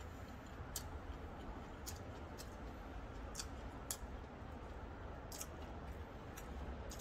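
Close-miked chewing of a mouthful of food, closed-mouth, with scattered short crisp clicks and crunches every second or so over a low steady hum.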